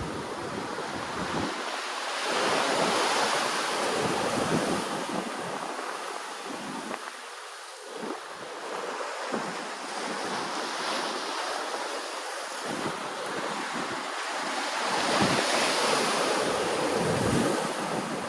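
Ocean waves washing in, a steady rush of surf that swells louder twice: about two seconds in and again near the end.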